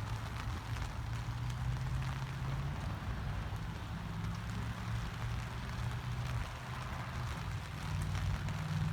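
Steady rain falling, with faint scattered drop ticks and a low steady hum underneath.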